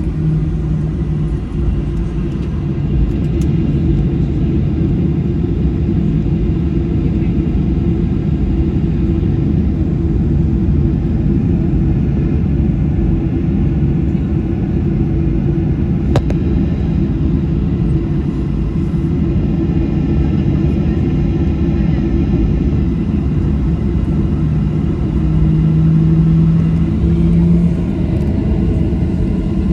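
Boeing 737-800 cabin noise with the CFM56-7B engines at idle: a steady rumble under a low hum that swells briefly a little before the end. One sharp click about halfway through.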